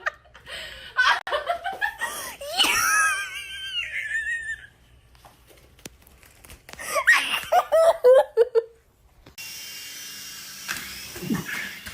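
A person laughing in bursts, in two spells a few seconds apart.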